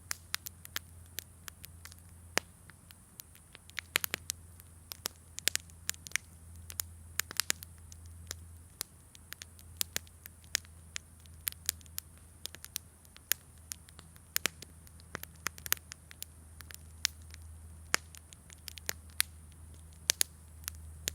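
Campfire wood crackling, with irregular sharp pops and snaps several times a second over a faint steady low hum and hiss.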